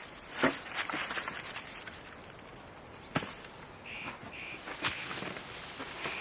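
A bird calling in a run of short, evenly spaced notes, about two a second, starting about two-thirds of the way in, over a few scattered sharp knocks.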